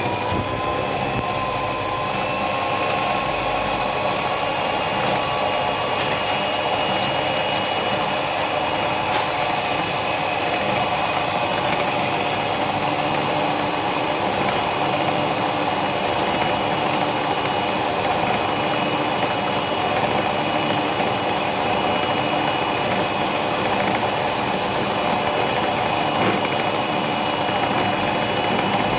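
Electric kitchen mixer motor running steadily, mixing a thin liquid of milk, eggs, sugar and water. Its whine rises slightly in pitch over the first few seconds, then holds steady.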